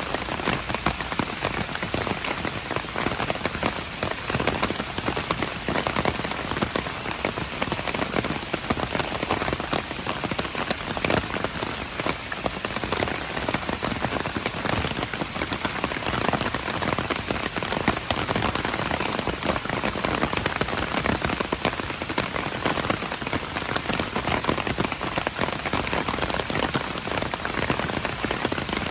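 Steady heavy rain falling on a hard surface, a dense hiss full of fine drop patter.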